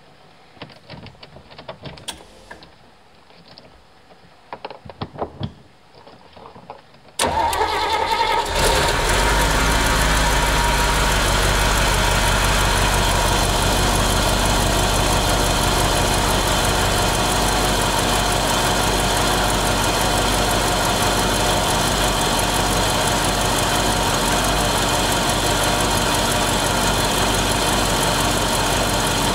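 A few faint clicks, then about seven seconds in a Mercedes-Benz petrol V8 turns over and catches within about a second on a cold start after standing unused for years, settling into a steady, even idle.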